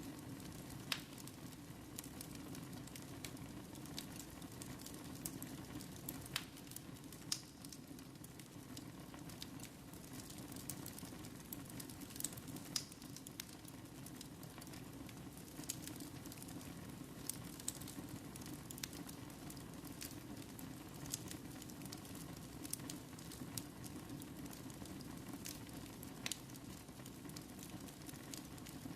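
Wood fire burning in a fireplace: a steady low hiss of flames with irregular sharp crackles and pops, a few louder snaps scattered throughout.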